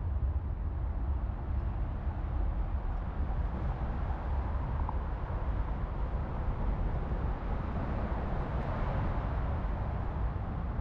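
Oldsmobile 215 cubic-inch aluminum V8 in an Austin-Healey 100-4 running steadily, a deep, even engine rumble with no revving.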